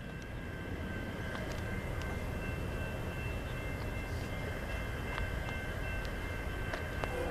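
Low, steady rumble of a distant approaching freight train, slowly growing louder, with thin steady high-pitched tones above it.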